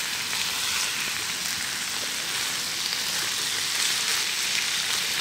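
Diced pork and vegetables sizzling steadily in a frying pan.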